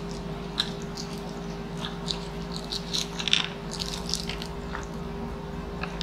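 Close-miked chewing, with scattered small crackles and clicks that are loudest a little past halfway, over a steady low hum.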